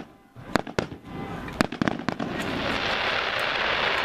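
Fireworks display: a few sharp shell bursts in the first two seconds, then a dense steady hiss from about halfway through.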